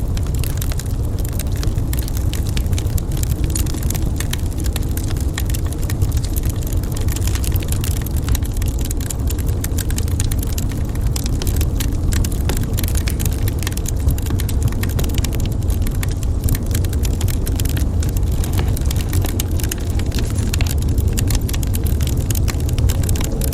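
Wood fire crackling in a fireplace: many small pops and snaps over a steady low rumble.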